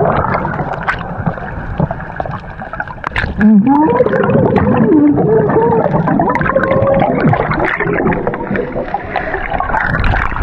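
Muffled underwater gurgling and water noise as a diver goes down in a river. About three and a half seconds in it grows suddenly louder, with wavering, gliding tones running through the gurgle.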